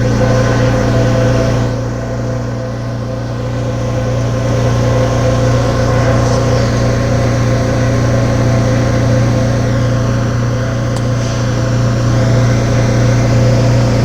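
R179 subway train running steadily, with a constant low hum and several fixed tones over rolling noise.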